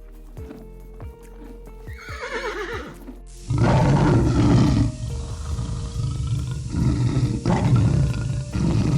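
A horse whinnies once about two seconds in, then from about three and a half seconds a big cat gives loud, rough roars in several surges, over steady background music.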